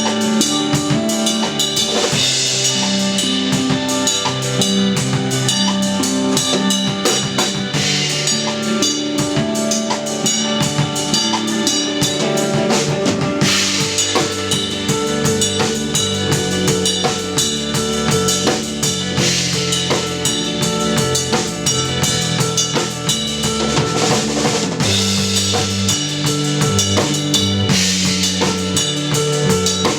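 Live instrumental post-rock played by electric guitar, electric bass and drum kit, with the drums driving and several cymbal crashes.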